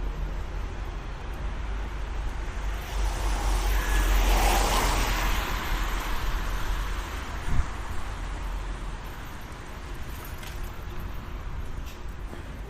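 A road vehicle passes, its noise swelling to a peak about four and a half seconds in and then fading, over a steady low street rumble. A short knock sounds about seven and a half seconds in.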